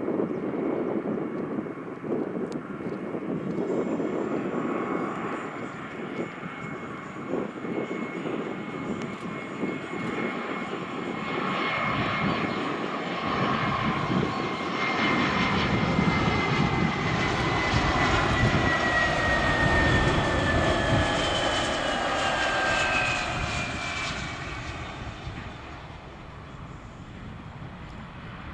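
Airbus A320 jet airliner's twin turbofan engines on landing approach. The rushing engine noise builds to its loudest as the aircraft passes close, while the engines' whine slides steadily down in pitch, then fades away near the end.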